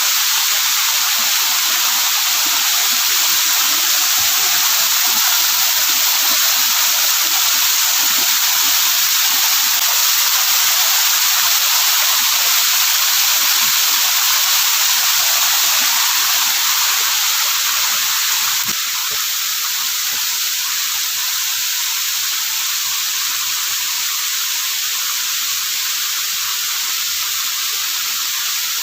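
Waterfall's rushing water, a steady loud hiss that drops slightly in level about two-thirds of the way through.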